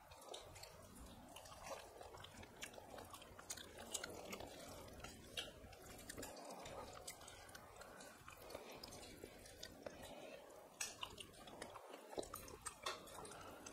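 Faint chewing and wet mouth smacking, with scattered soft clicks, from two people eating rice and chicken curry with their hands.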